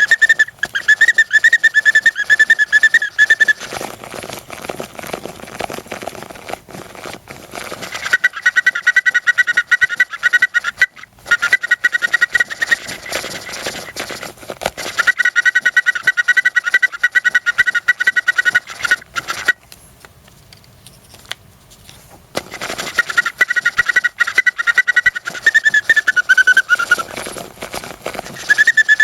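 Hand-cranked bird organ (Gakken Otona no Kagaku Vol.37 kit) playing a tune. High, shrill piping trills imitate birdsong in phrases several seconds long, with softer stretches between phrases and a short pause about two-thirds of the way through.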